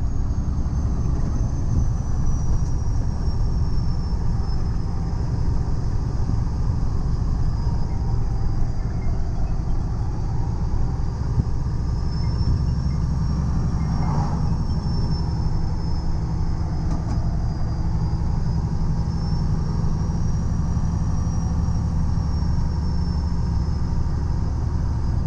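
Heavy-duty tow truck driving with a semi tractor in tow: a steady low engine and road rumble, with a faint high whine that slowly drifts up and down in pitch.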